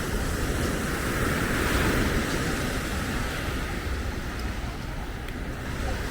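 Beach promenade ambience: a steady wash of outdoor noise with a low rumble, swelling to its loudest about two seconds in.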